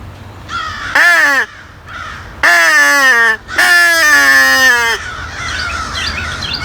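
Haydel's triple-tone plastic crow call blown three times: a short falling caw about a second in, then two longer, drawn-out caws. A flock of wild crows keeps cawing in the background in answer to it.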